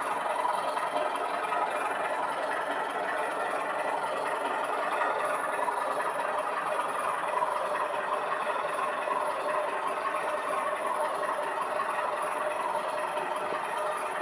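O gauge model train running on its track, with a steady running rattle from wheels and motor.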